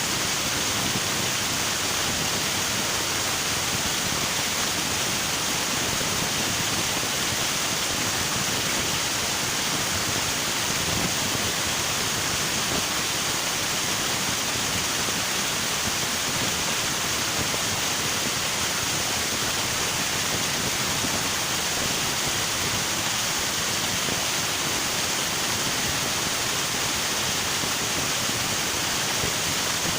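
River water rushing steadily over rocks, an even hiss with no separate events.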